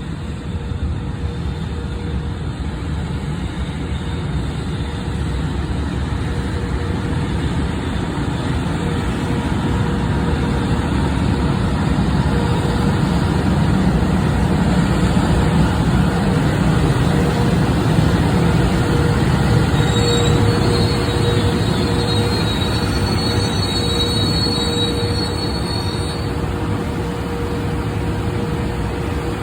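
Freight train rolling past: a steady rumble of wheels on rail that swells in the middle, under a constant hum. Thin, high wheel squeals come in for several seconds about two-thirds of the way through.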